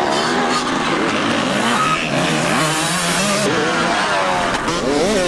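Several motocross bikes running together, their engines revving up and down at overlapping pitches.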